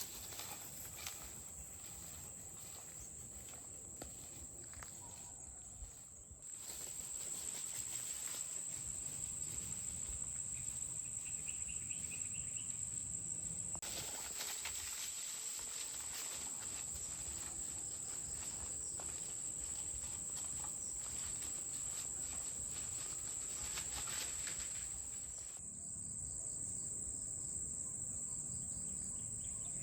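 Insects chirring in a steady, high-pitched drone that gets louder about six seconds in.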